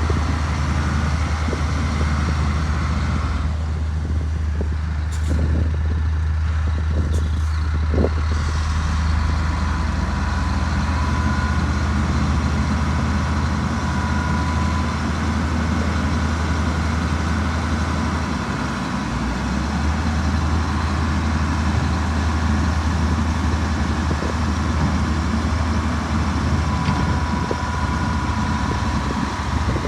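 Heavy diesel engine of earthmoving machinery running steadily under load, its note shifting briefly a little after halfway. A few knocks and clanks come in the first third.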